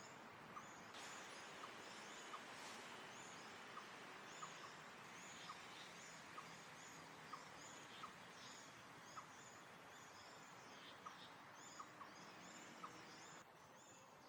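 Small birds calling, faint: a short, sharp note repeated every half second to a second, with many high chirps over a steady hiss that stops near the end.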